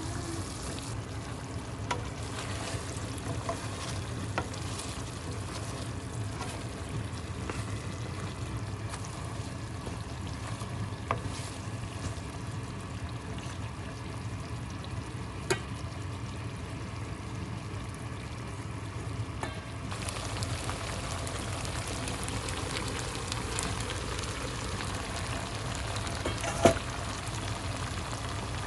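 Food sizzling in a frying pan as it cooks, a steady hiss that grows brighter about two-thirds of the way in. A few sharp clicks cut through it, the loudest near the end.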